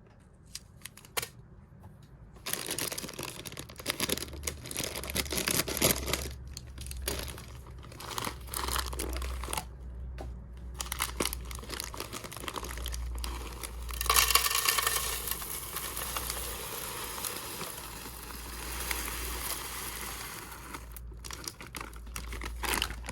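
Plastic bag of dry hamster food crinkling and rustling as it is handled and opened, in irregular bursts that are loudest about midway through.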